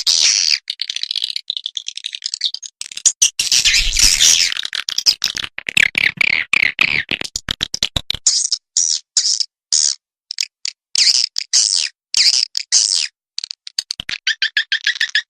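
Swiftlet calls played as a lure sound for swiftlet houses: rapid, high twittering chatter made of clicky pulses, coming in bursts with short gaps between them.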